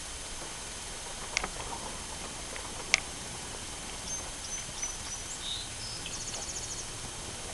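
A songbird singing a few high, thin whistled notes that end in a quick trill, over a steady background hiss. Two sharp clicks come earlier; the second is the loudest sound.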